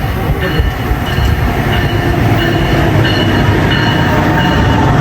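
NJ Transit train rolling along the platform: a loud, steady rumble of wheels on rail with short, repeated high-pitched squeals.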